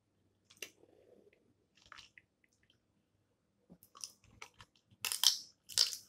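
Close-miked eating of spicy snow crab: soft chewing and small wet clicks, then two loud, crisp crunching bursts about five and six seconds in.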